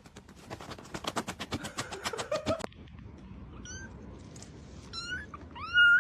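A fast run of sharp clicks or rattling for about two and a half seconds that stops abruptly, then a domestic cat meowing three short times, the last meow the loudest.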